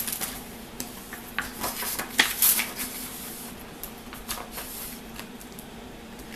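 Rustling and soft knocks of a picture book being handled and opened: several short clicks, with a longer rustle about two seconds in, over a faint steady room hum.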